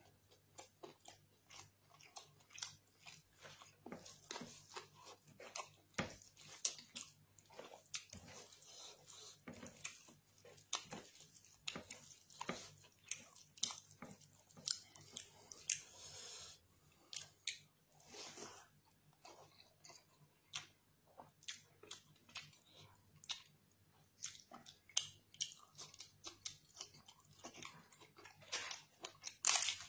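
A man chewing and smacking his lips while eating chicken leg curry and basmati rice with his fingers: many short, irregular wet clicks and smacks.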